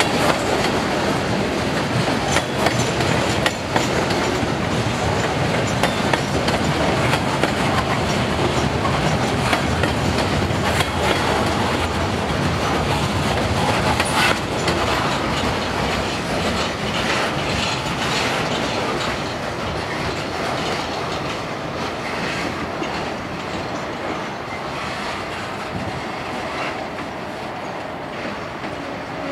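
Freight train cars (boxcars and a loaded centerbeam lumber car) rolling past, with their wheels clattering over the rail joints. Once the last car goes by, about halfway through, the sound slowly fades as the train moves away.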